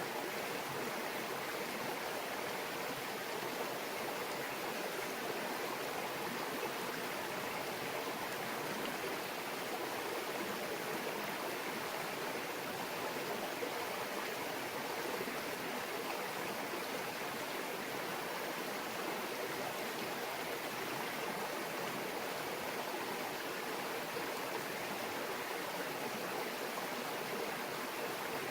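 Mountain stream babbling steadily over rocks, an even rush of flowing water with no change throughout.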